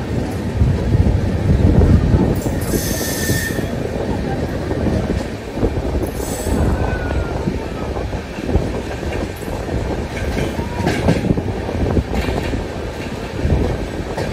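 Brindavan Express passenger train running out of the station: a steady rumble of wheels on rail with repeated clatter over rail joints and points, and brief thin wheel squeals. Two short hisses, about two and a half and six seconds in.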